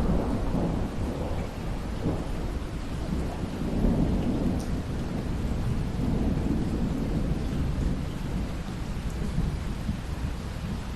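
Thunderstorm: steady rain with rolling thunder rumbling underneath, swelling right at the start and again about four seconds in.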